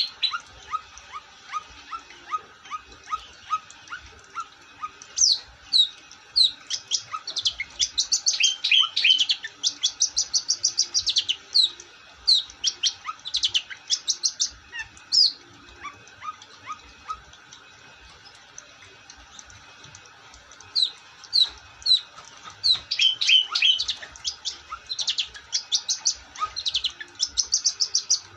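Long-tailed shrike (cendet) singing in fast runs of sharp high chirps and trills. A soft, evenly repeated lower note comes first, then two long, dense bouts of song, one in the middle and one near the end, with a quieter stretch between them.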